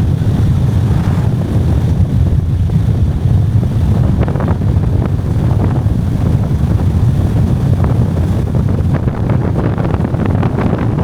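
Steady low rumble of a car on the move, with wind buffeting the microphone.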